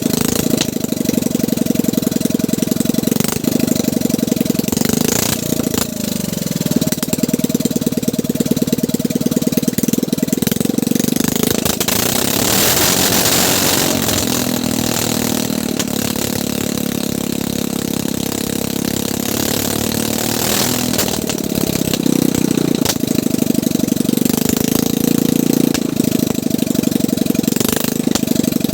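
Boat engine running, its even firing beat steady at first, then its pitch shifting and wavering for a stretch in the middle before it settles again.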